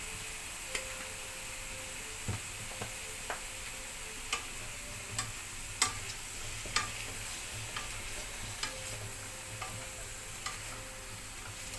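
Chicken and green papaya pieces frying in a pan with a steady sizzle, while a spoon stirring them knocks against the pan about once a second.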